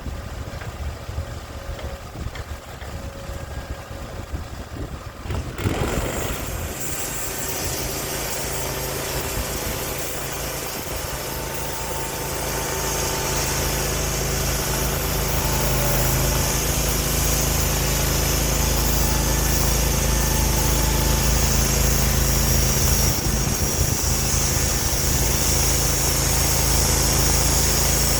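Portable sawmill's engine idling, then revved up about six seconds in and running steadily at speed, growing louder again from about twelve seconds on as the mill works.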